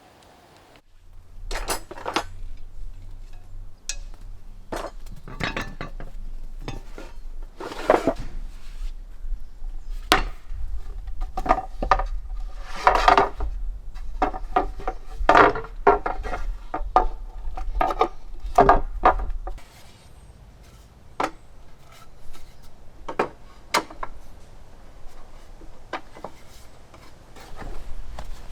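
Camp gear and metal cookware being handled and set down: a long irregular series of knocks and clinks, some ringing briefly. A low steady hum underneath stops about two-thirds of the way through.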